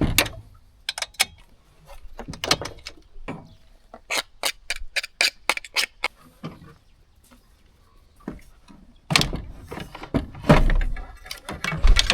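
Clicks and knocks of hand tools and parts being handled while a wraparound handle is fitted to a chainsaw: a quick run of sharp clicks about four seconds in, then heavier thumps and rustling near the end.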